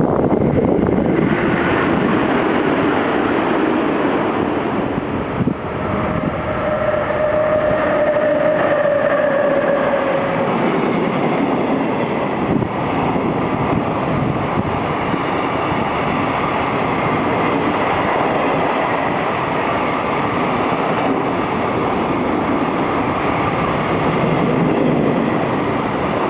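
An EF66 DC electric locomotive and trains running along the rails: steady, loud train noise throughout. A single held tone sounds for about four seconds, starting about six seconds in and sagging slightly in pitch.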